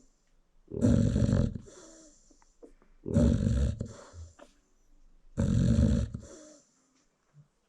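An American Bully mother dog snoring in her sleep: three loud snores about two and a half seconds apart, each trailing off over a second or so.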